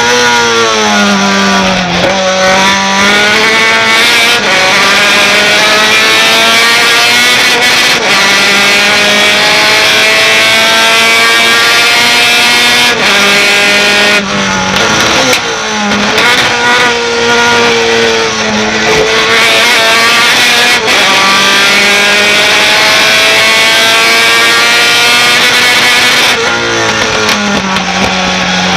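Racing pickup truck's engine at full throttle. Its pitch climbs steadily through each gear and drops sharply at each gear change, with a falling note early on and again about halfway through as it brakes and shifts down for corners.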